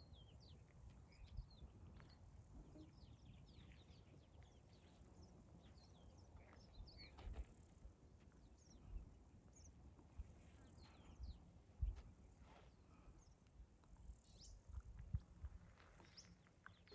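Faint birds chirping: many short, scattered calls over a low, uneven rumble.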